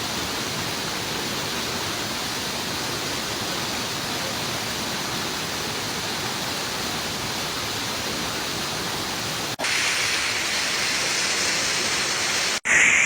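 Waterfall rushing: a steady, even wash of falling water. Its tone changes abruptly about ten seconds in, brighter and hissier, then breaks again just before the end.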